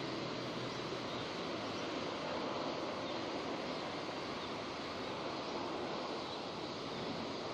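Rain falling steadily, an even hiss with no single drops or gaps standing out.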